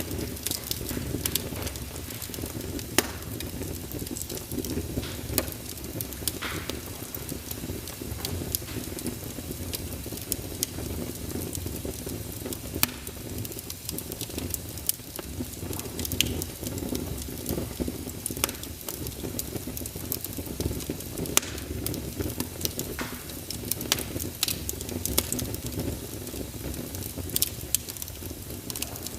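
Wood fire burning in a fireplace: irregular crackles and sharp pops of the burning logs over a steady low rumble of the flames.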